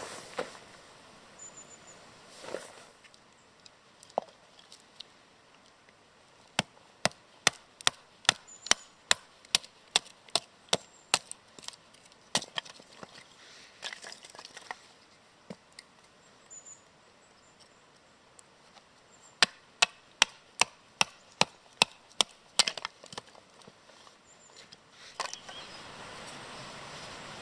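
Firewood being chopped or split at a camp, sharp knocks at about two a second. There are two runs of strikes with a pause of a few seconds between them.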